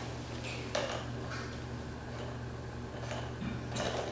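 Motorized Trackmaster Thomas toy train running with a steady low motor hum, with a few light plastic clicks.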